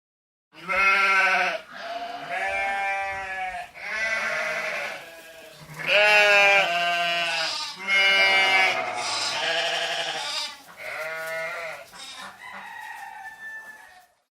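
Sheep bleating: about eight quavering calls one after another, at differing pitches, as from several animals.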